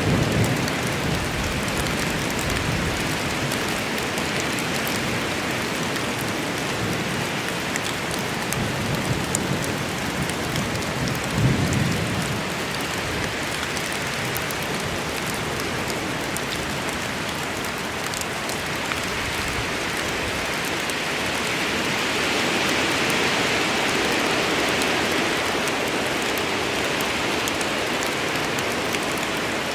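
Steady rain falling on forest foliage and ground, with a brief low rumble of thunder a little before halfway through.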